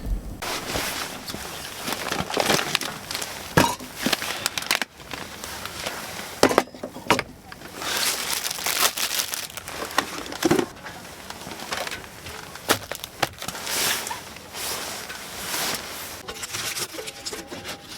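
Rustling and handling noises with scattered sharp clicks and knocks.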